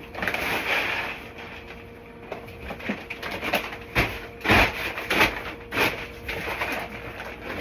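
Grain poured from a feed bag into a bucket, a rushing rattle that trails off after about a second and a half, followed by several sharp knocks and thumps as the bag and bucket are handled.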